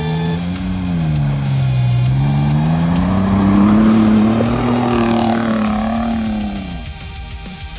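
Truck engine revving hard under load, its pitch dipping briefly, then climbing steadily to a peak about four seconds in before falling away near the end.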